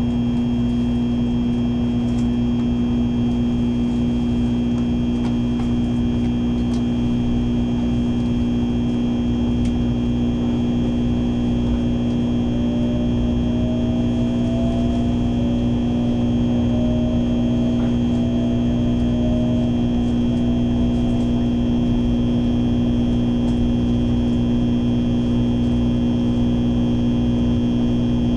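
Shinkansen bullet train running, heard inside the passenger cabin: a steady hum and rumble with a strong constant tone. Around the middle, a faint whine rises in pitch several times in short steps.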